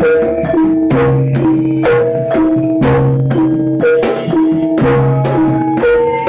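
Jaranan gamelan-style ensemble playing: struck pitched percussion repeating a short melodic pattern at about two strokes a second, with drum strokes and low ringing tones underneath.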